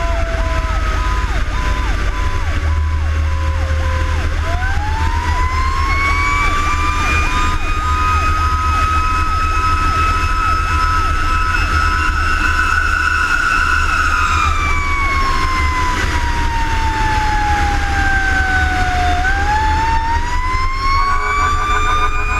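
Fire engine's mechanical siren winding slowly up about four seconds in, holding its pitch, sliding slowly down, then winding up again near the end. A steady beeping at one pitch, about two beeps a second, runs under it, over a heavy low truck-engine rumble.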